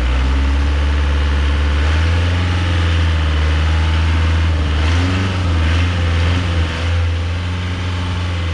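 Boat engine running at a steady speed: a loud, low, even drone with water and wind hiss over it.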